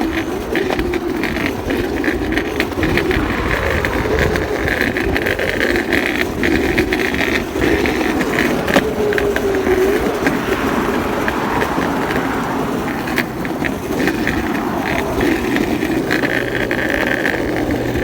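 Longboard wheels rolling on pavement: a steady rumble with frequent sharp clicks scattered through it.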